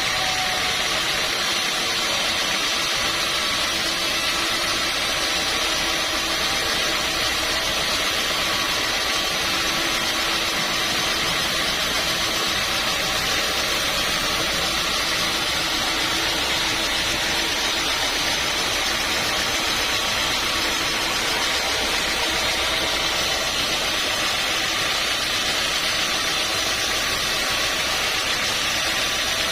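Sawmill machinery running steadily, an even engine-like drone with a faint hum that does not change.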